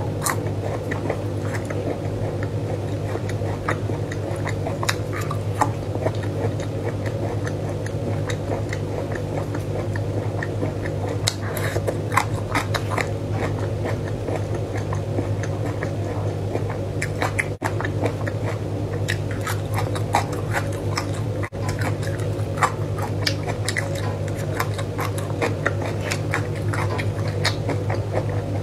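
A person chewing crisp, chili-coated food strips close to a clip-on microphone, with many small wet crunching clicks, over a steady low hum.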